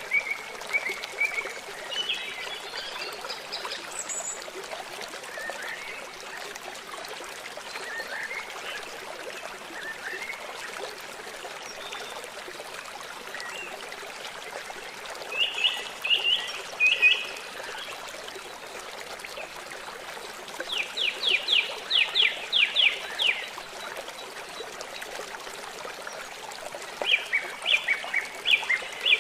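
A stream running steadily, with songbirds calling over it: scattered short chirps, and a few bursts of rapid repeated notes, one fast run of about ten notes about two-thirds of the way through.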